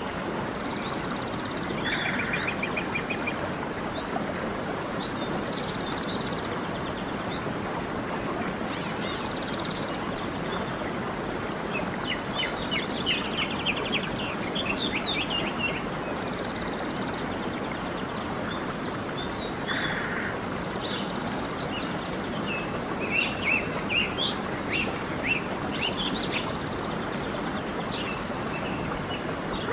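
Steady rushing of a flowing stream, with songbirds chirping over it in several bursts of quick, high calls.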